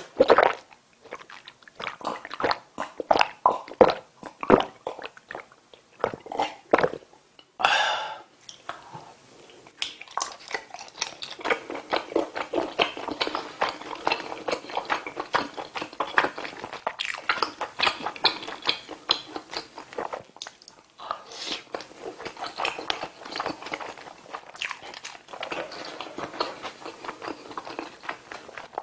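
Close-miked eating of sauce-coated skewered rice cakes and sausage: a few swallows of drink at the start, then separate bites, and from about ten seconds in steady, rapid wet chewing.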